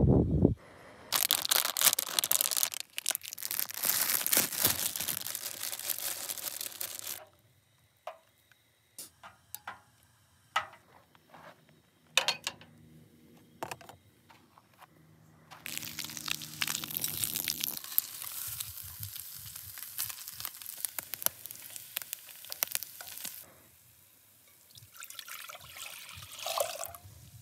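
Slices of pork belly frying and sizzling in a small pan on a portable butane camp stove, in two long stretches with scattered clicks and knocks of utensils between them. Near the end, liquid is poured from a metal bowl into a pot.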